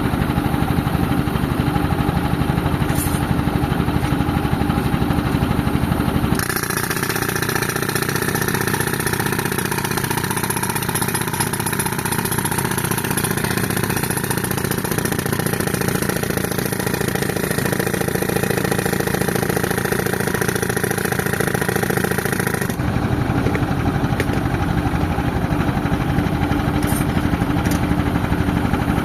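Tractor-driven air compressor running steadily with the tractor engine. About six seconds in, the low rumble drops away and a high hiss takes over. Near the end the heavy rumble returns.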